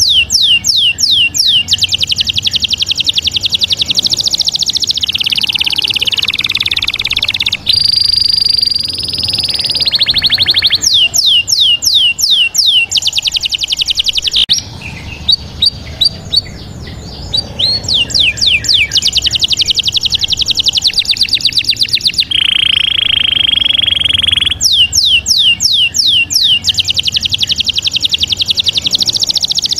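Bird song close to the microphone: repeated phrases of quick downward-sweeping chirps, fast high trills and a held whistled note, each phrase pattern coming back several times.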